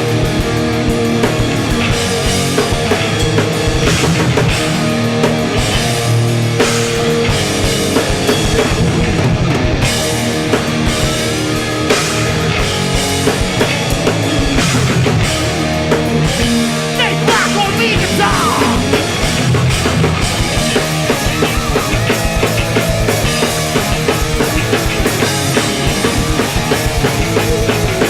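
Hardcore punk band playing loud and live: distorted electric guitars, bass and a drum kit driving through a passage of the song.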